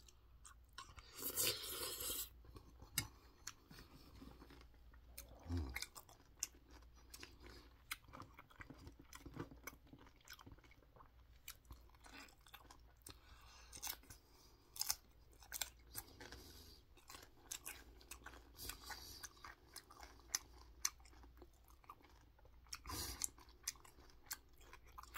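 Close-up chewing of a mouthful of bibimbap and raw green Cheongyang chili pepper: a steady run of small crisp crunches and wet mouth clicks.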